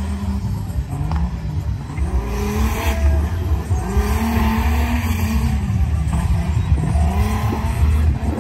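Six-cylinder off-road race vehicles' engines running at hard throttle in a drag race, their pitch repeatedly swelling and dropping back.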